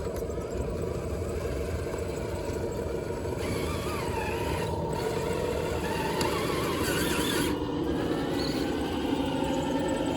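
Electric RC rock crawler driving, its motor and gears whining and rising and falling in pitch with the throttle over a steady low rumble.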